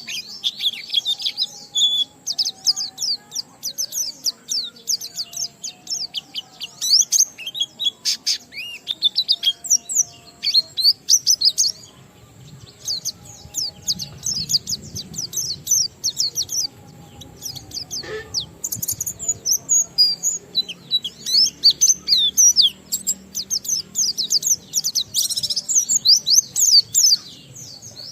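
White-eye (pleci) singing a long, fast, continuous warbling song of quick high chirps and trills in the 'ngalas' style, with brief breaks about twelve and seventeen seconds in.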